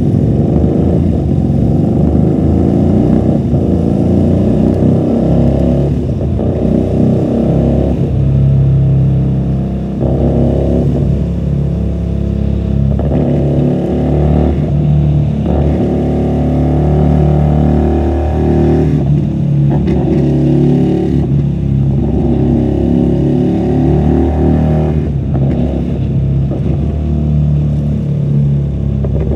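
QJMotor SRV250 V-twin engine with a custom two-into-one exhaust, pulling through the gears: the engine note climbs and then drops sharply at each upshift, many times over.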